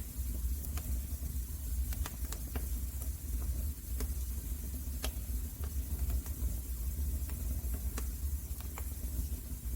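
Wood fire crackling in a fireplace: irregular sharp pops and snaps, roughly one every half second to a second, over a steady low rumble of the flames.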